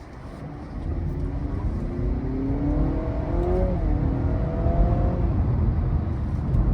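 Honda Civic Hybrid's 2.0-litre four-cylinder engine revving up under hard acceleration, heard from inside the cabin. Its pitch climbs, dips briefly about three and a half seconds in, then rises again, over a road rumble that grows louder as the car gains speed.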